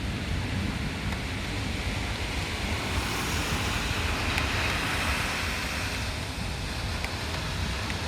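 Heavy rain and gusty wind: a steady hiss of rain with wind buffeting the microphone. The hiss swells for a few seconds in the middle.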